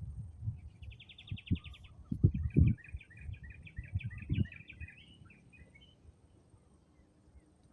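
A small songbird singing: a fast trill, then a run of quick chirping notes that stops about five seconds in. Low thumps, the loudest sounds, come repeatedly during the first half.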